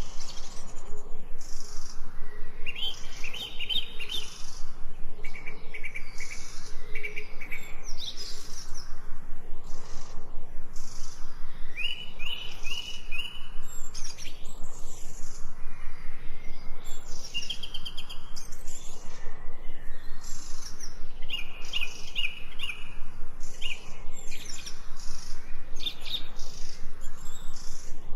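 Birds chirping and singing: short, bright series of quickly repeated notes every second or two, over a fast, even pulsing background.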